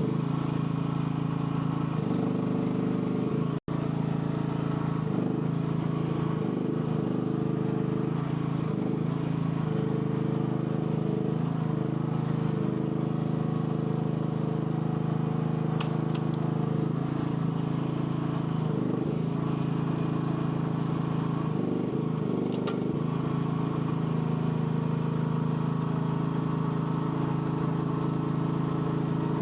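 AGT L12 mini excavator's engine running steadily while the hydraulics are worked, its pitch wavering and dipping briefly under load now and then. A few sharp metallic clicks come through in the second half.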